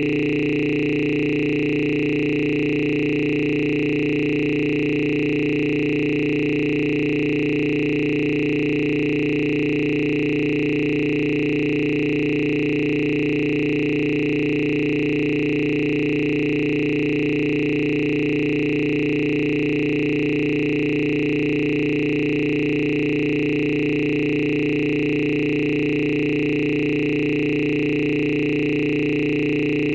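A steady electronic drone of several held tones, low, middle and high, sounding together without any change.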